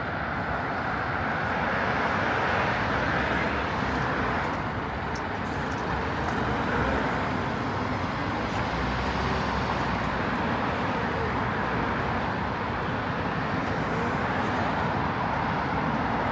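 Steady road traffic: a continuous wash of cars and other vehicles passing, with no single vehicle standing out.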